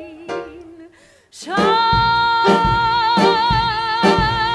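Musical-theatre song with band: after the line ends and a brief near-silent break about a second in, a singer holds one long high note with vibrato over a steady beat.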